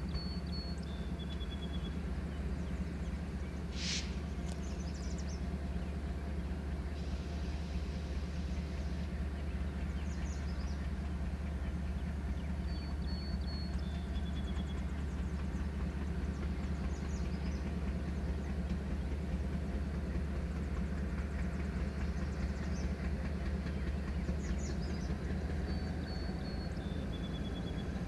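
Steady low rumble of a train. A bird's short two-note call, a high note then a lower one, repeats three times over it: near the start, about halfway and near the end.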